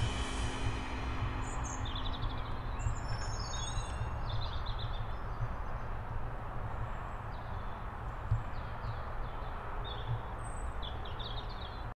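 Birds chirping in short repeated calls over a steady low outdoor rumble. The tail of sustained music tones fades out in the first three seconds.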